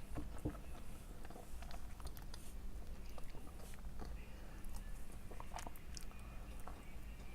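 A person chewing spaghetti close to the microphone: scattered small wet mouth clicks and smacks.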